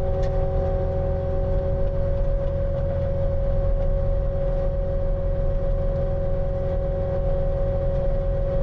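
Skid steer's diesel engine running steadily under load with a Harley power rake, a constant whine riding over the low engine rumble.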